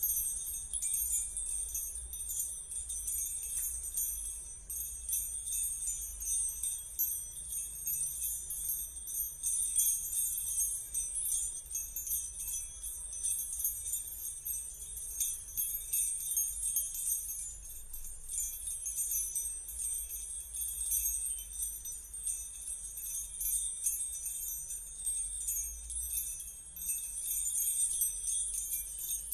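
Continuous high, bell-like jingling shimmer with steady high tones and many fine rapid ticks, running without a break.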